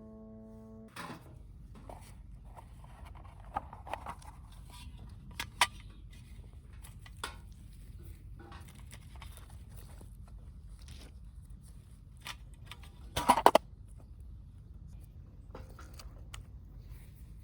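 A held musical tone cuts off about a second in. After it come scattered sharp clicks and knocks over a low steady rumble, the loudest a quick cluster of clicks about thirteen seconds in.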